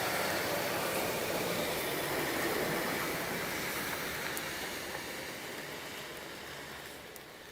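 A vehicle passing on a wet road: tyre hiss over steady rain, fading away over several seconds.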